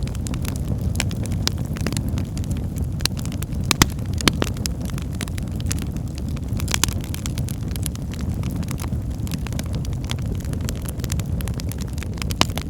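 Wood fire of burning logs: a steady low rumble of flames with frequent irregular crackles and pops, a few louder snaps scattered through.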